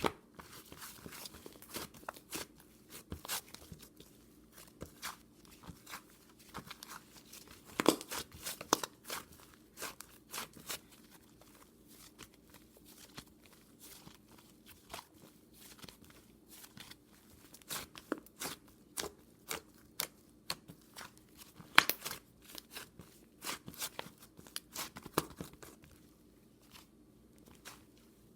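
Close-up crisp crunching and crackling: irregular clicks and snaps, with two sharper, louder snaps, one about eight seconds in and one a little past twenty seconds.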